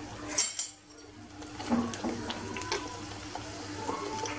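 Rghaif, folded Moroccan msemen-style flatbreads, sizzling as they fry in hot oil in a frying pan, with a few light clicks of a metal spoon against the pan.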